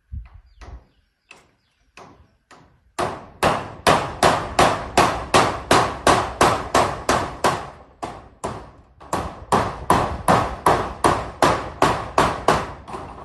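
Hammer driving nails: a few light taps, then a long run of steady blows at about three a second, with a short break in the middle.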